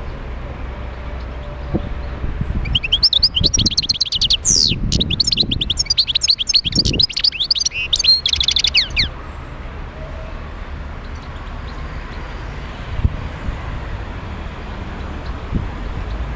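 European goldfinch singing one fast twittering phrase of rapid chirps and trills, starting about three seconds in and lasting about six seconds, over a steady low background rumble.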